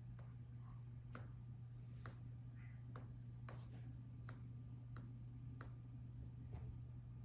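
Laptop keys pressed one at a time: about nine faint, separate clicks, unevenly spaced at roughly one a second, over a steady low hum.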